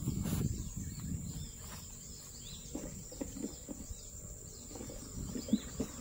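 Small birds chirping faintly in the trees over a steady high insect drone, with a brief low rumble at the start.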